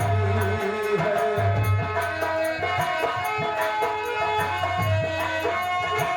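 Indian folk music, an instrumental passage: long held melody notes over a steady beat of low drum strokes.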